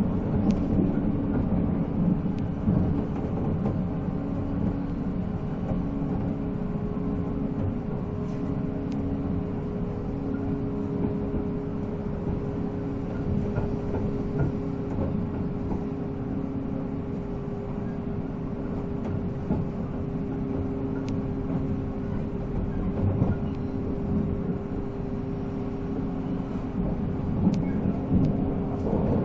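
485-series electric train running at speed: its MT54 traction motors whine on a steady pitch over the continuous rumble of wheels on rail.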